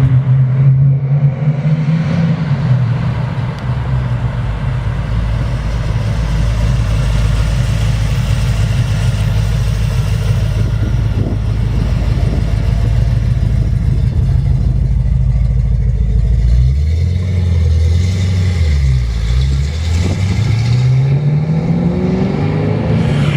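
Big-block Chevrolet V8 in a 1968 Camaro running at a steady idle, then revved, its pitch dipping and climbing over the last several seconds.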